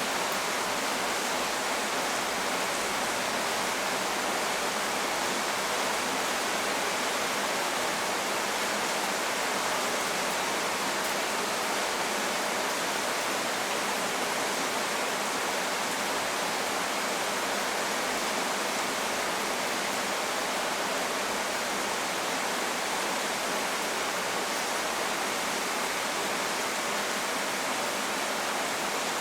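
Steady rainstorm noise: an even, unbroken hiss with no single drops, thunder or other events standing out.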